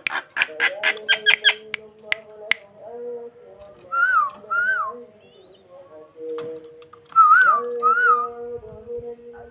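Starling (jalak) calling: a run of rapid sharp clicks, then two pairs of rising-and-falling whistled notes, the first pair about four seconds in and the second about seven seconds in.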